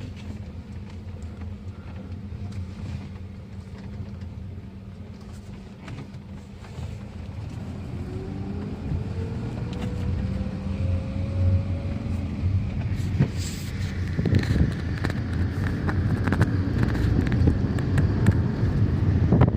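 Car engine running low, then pulling away with a faint rising whine about halfway through. Road and wind noise grow louder as the car speeds up toward the end.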